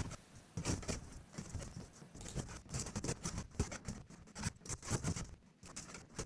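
Paint scraper scraping flaking paint off a drywall ceiling in short, irregular strokes.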